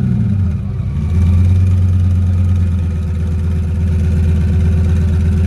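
Lamborghini Gallardo's V10 engine running through its quad exhaust, the revs falling away in the first second and then holding a steady idle.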